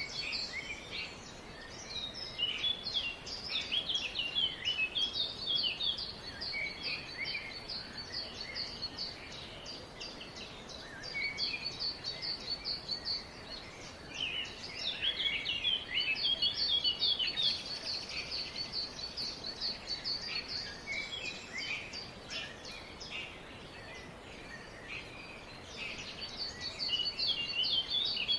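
Several small birds chirping and twittering together in quick, dense runs of high notes, thinning out briefly twice before picking up again.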